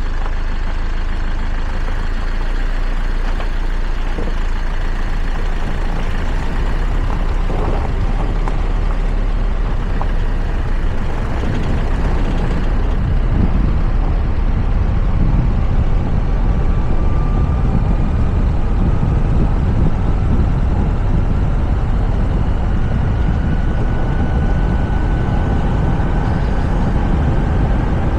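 Toyota RAV4 driving on a mountain road, steady road and wind noise heard through a roof-mounted camera, with a faint whine that rises slowly in the second half.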